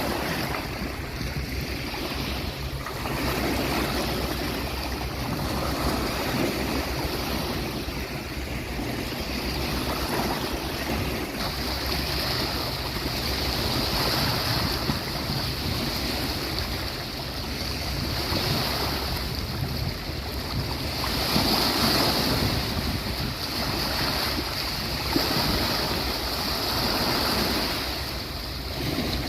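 Sea waves breaking and washing up the beach, a continuous surf that swells and eases every few seconds.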